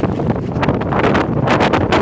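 Strong wind buffeting the microphone, a loud rumbling roar with repeated sharp gusty flares.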